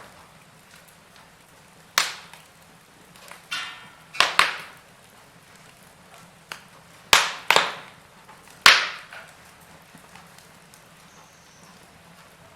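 Wood fire crackling in a fireplace: several sharp snaps and pops a second or two apart over a faint steady hiss.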